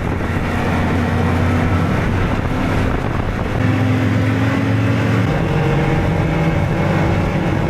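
Ski-Doo Expedition LE 900 ACE snowmobile's three-cylinder four-stroke engine running under way, its pitch shifting a couple of times as the speed changes.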